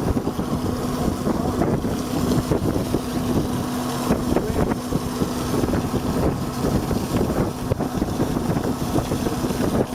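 Boat engine running steadily with a constant hum, and wind buffeting the microphone.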